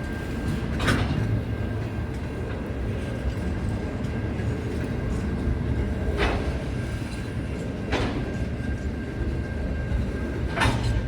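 A train running on the rails: a steady low rumble with a thin, steady high whine over it and four sharp clacks, the first about a second in, two in the middle and one near the end.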